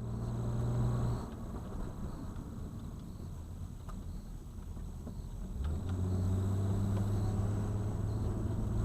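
A car driving, with a steady low engine hum and road noise. The hum eases after about a second and returns more strongly about six seconds in.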